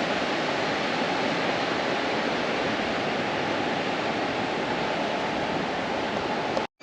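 Steady rushing of flowing water, an even continuous wash with no breaks, cutting off abruptly right at the end.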